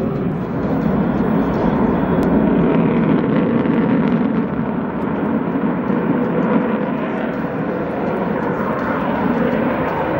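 Lockheed Martin F-22 Raptor's twin F119 afterburning turbofans heard as loud, steady jet noise with little change in level.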